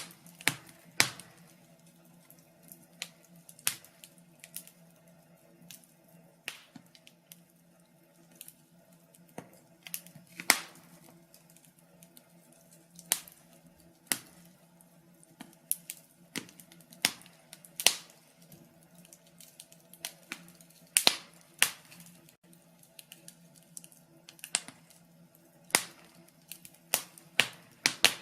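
Wood fire crackling in a fireplace: irregular sharp pops and snaps, one or two a second, over a faint steady low hum.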